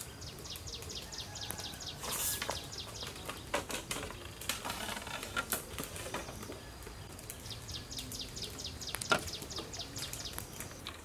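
A bird's fast, even trill, about eight pulses a second, heard twice: at the start and again around eight seconds in. A few sharp knocks and clatters of a plate and knife being set down on a bamboo table come between and after, the loudest just after the second trill.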